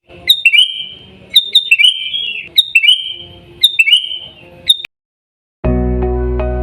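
Sooty-headed bulbul (kutilang) calling: four short whistled phrases about a second and a quarter apart, each a sharp high note followed by a held, lower warbling note, then one last short note. Music starts about a second before the end.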